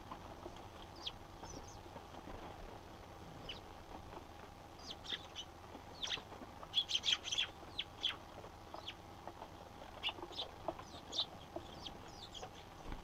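Eurasian tree sparrows chirping: scattered short, sharp chirps that come thick and fast for a moment about halfway through, then thin out again.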